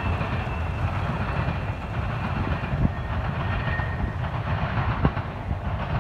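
Intermodal freight train rolling past: a steady rumble of wheels on the rails, with two sharp clicks along the way.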